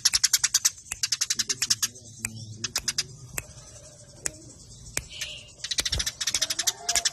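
Eurasian tree sparrows giving fast, rapid-fire fighting chirps: quick runs of short sharp chirps, thinning out in the middle and packing densely again near the end.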